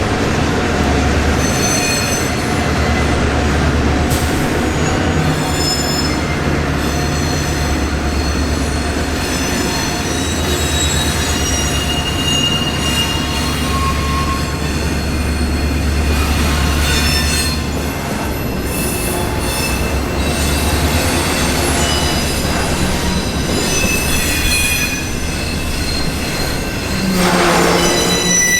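Train rolling past with a steady low rumble from the cars, and high-pitched wheel squeal that comes and goes as the wheels rub on the rails.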